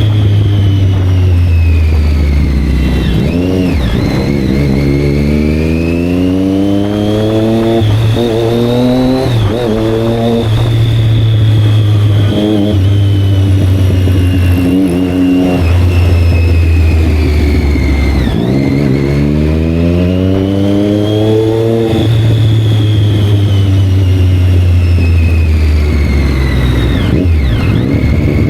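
Sport motorcycle engine revving again and again: each rev climbs in pitch for a second or several and then falls away, over a steady low engine rumble.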